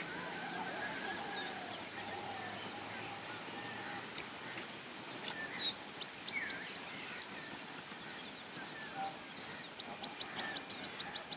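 Mixed wild birds calling, with scattered short chirps and whistled glides rising and falling over a steady high hiss. A fast run of short ticks, several a second, starts near the end.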